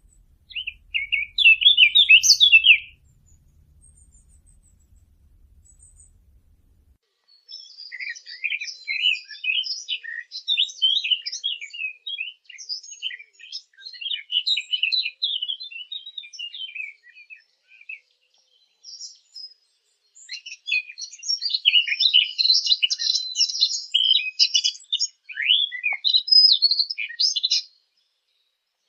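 A 'fig bird' (عصفور التين), a small songbird, singing in fast twittering, chattering phrases: one short burst about a second in, then long runs of rapid notes from about 7 s to 18 s and again from about 20 s to near the end, with short pauses between them.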